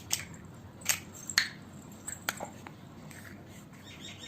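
A few sharp, light clicks and taps from hands working play dough with its plastic toys and tools, the strongest in the first second and a half and smaller ones later.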